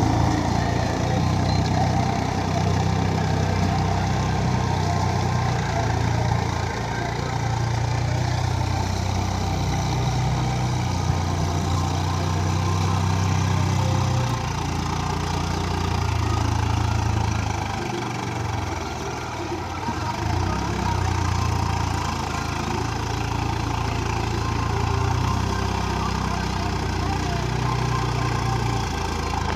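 Swaraj tractor's diesel engine running at a steady low pitch that steps up and down every few seconds, easing briefly about two-thirds of the way through.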